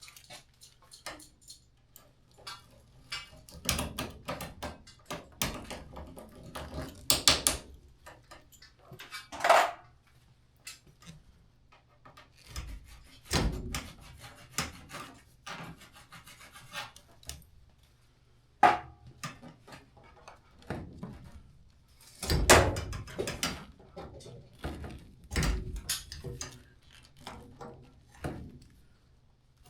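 Irregular knocks, clicks and scraping from tools and parts being handled during an HVAC installation, with heavier thumps about 13 and 22 seconds in, over a faint steady low hum.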